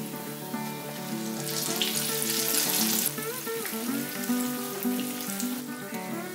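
Breaded eggplant sizzling as it fries in a pan of hot oil. The hiss is loudest for a second or two starting about a second and a half in, over background music.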